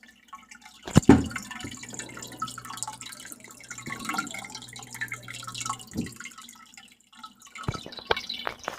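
Water dripping and splashing, with a few sharp knocks, the loudest about a second in and a couple near the end, and a low hum in the middle.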